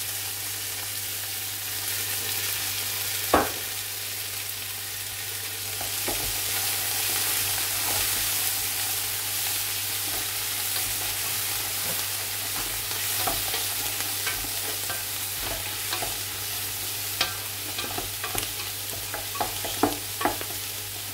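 Chopped onions, green chillies and fresh coriander sizzling as they are lightly fried in oil in an aluminium pot, with a wooden spoon stirring and scraping against the pot in scattered clicks. There is a sharp knock about three seconds in, over a low steady hum.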